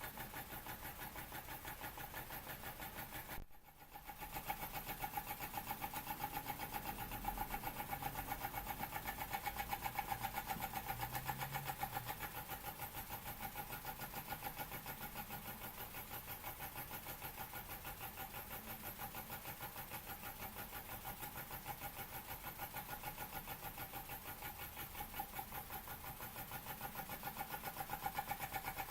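Weeden 420 model steam engine running on steam, its exhaust beating fast and evenly, with a steady tone over it. The sound dips briefly about three and a half seconds in, then carries on.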